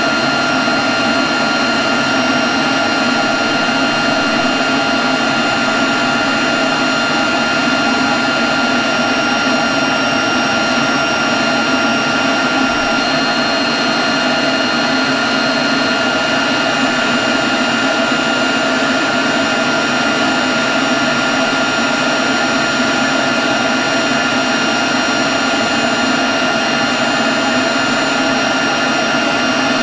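Leaf blower running steadily at a constant speed: loud rushing air with a steady high whine from the fan.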